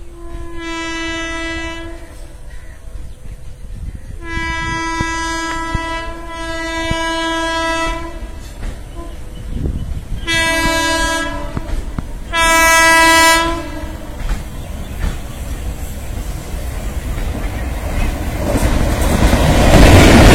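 Train horn sounding five blasts, each held for one to two seconds, with the middle two run close together. Under them a low rumble of rolling train grows louder toward the end as the train draws close.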